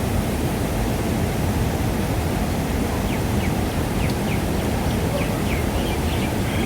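Steady rushing noise, strongest in the low end, with faint short high chirps from about three seconds in.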